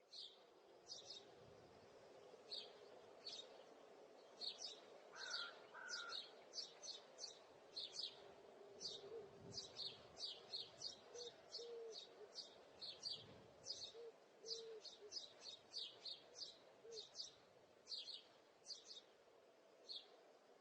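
Small birds chirping: short, high chirps repeated about twice a second, with a few faint short low notes in between.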